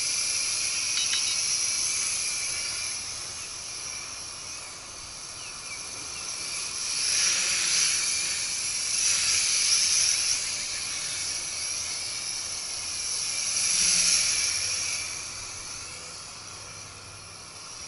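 Nihui U807 mini quadcopter flying on WLtoys V636 motors: a high-pitched buzzing whine of the small motors and propellers that swells and fades several times as the craft moves nearer and farther.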